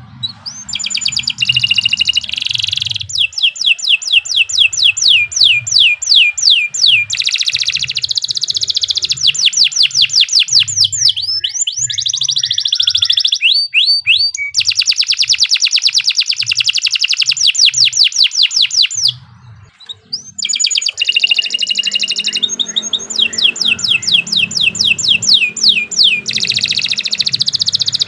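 A domestic canary singing a long, continuous song of fast repeated trills and sweeping whistled notes, changing from one rolling phrase to the next. The song breaks off briefly about two-thirds of the way through, then resumes.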